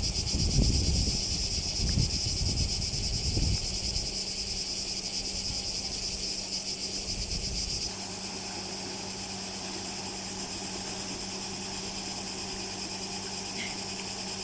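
A steady, high insect chorus with a fine pulsing texture, over a low rumble that drops away about halfway through.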